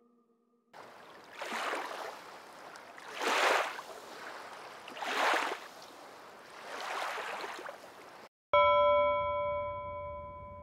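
Sea-wave sound effect: a wash of surf that swells and falls back four times, about every two seconds. It cuts off, and a chime is struck once and rings on, fading.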